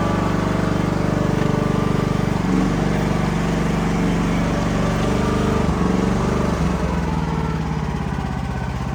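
Small petrol engine of a Chinese mini excavator running steadily, its note shifting a few times as the machine is worked.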